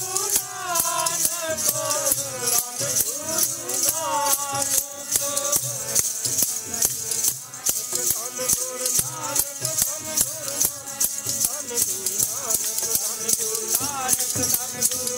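Sikh kirtan: a voice singing a devotional melody over fast, steady jingling percussion.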